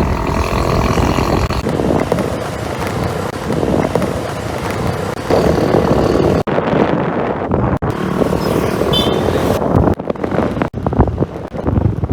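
Suzuki Skydrive 125 scooter's single-cylinder engine running on the move, mixed with wind noise on the microphone, the sound cutting abruptly between stretches of riding several times.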